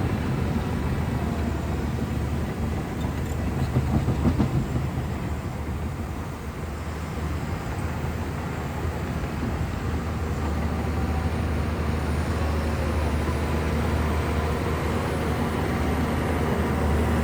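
Shantui bulldozer's diesel engine running steadily as it works, with a brief rise in loudness about four seconds in.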